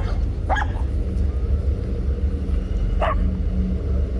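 Dog barking in three short, sharp barks, two close together at the start and one about three seconds in, over a steady low rumble.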